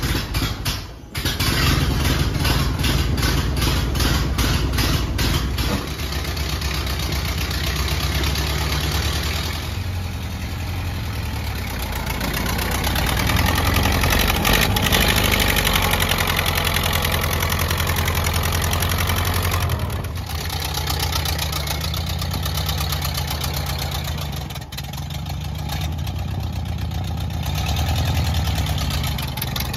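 1928 Ford Model A's four-cylinder flathead engine running as the car is driven, its firing pulses plain in the first few seconds and growing louder a little before halfway through.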